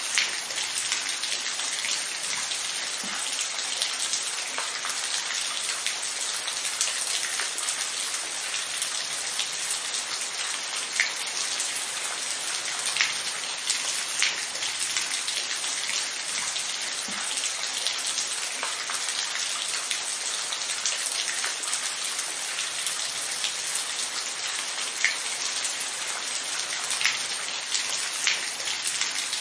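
Steady rain, a continuous hiss with individual drops ticking sharply on a surface every second or so.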